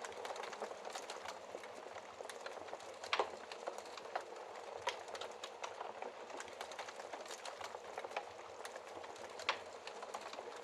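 Wood fire crackling in a fireplace: a steady hiss with dense small crackles and occasional louder pops, the sharpest about three seconds in and again near the end.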